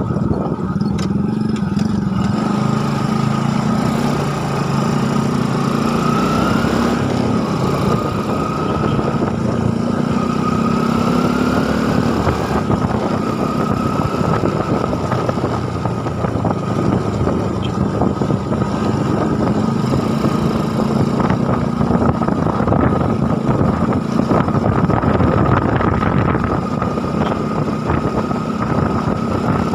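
A small engine running steadily under a dense rushing noise, its pitch climbing a little and settling back a few times.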